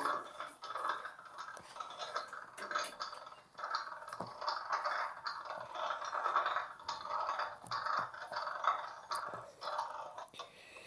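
Miniature LG Mini Turbo Drum washing machine running its wash cycle: an irregular scraping, rattling churn in uneven pulses, with small clicks.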